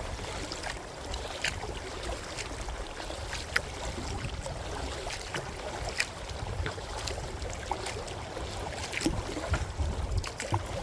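Kayak paddling: the paddle blades dip and splash with scattered drips and small knocks, while wind rumbles on the microphone.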